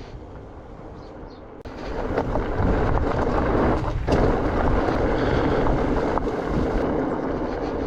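Steady rushing and rumbling of wind on the microphone, jumping louder about two seconds in.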